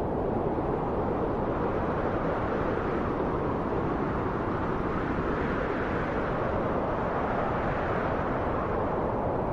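Steady rushing wind, a dense low hiss that swells a little brighter in the middle, like a gust building and easing.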